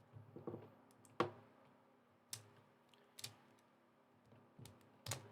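Plastic Lego pieces clicking and clacking as they are handled and pressed together: a handful of sharp, separate clicks, the loudest about a second in.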